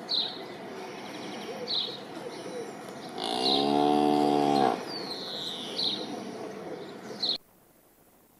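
Highland calf mooing once, a single call of about a second and a half near the middle. Birds chirp in short falling notes every second or two around it.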